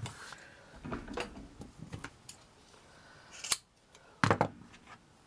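Handling sounds of craft materials and tools on a work surface: scattered light clicks and rustles, with a sharper click about three and a half seconds in and a quick double click just after.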